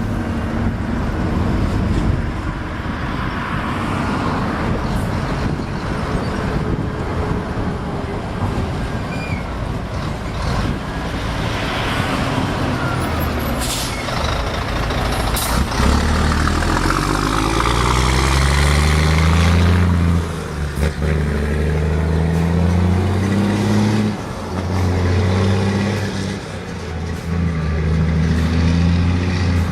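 Heavy diesel truck pulling away and accelerating through the gears: the engine note climbs, drops at each shift and climbs again several times in the second half. Before that, steady road and traffic noise with a couple of short air-brake hisses near the middle.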